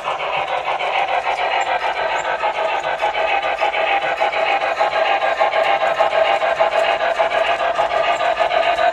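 Model train running on the layout, a steady mechanical rattle of fast, even ticking from its motor and wheels on the track.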